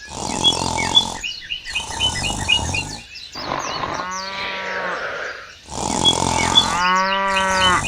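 Birds chirping, many short repeated chirps in blocks that start and stop abruptly. Twice a longer pitched animal call rises over them, once about four seconds in and once near the end.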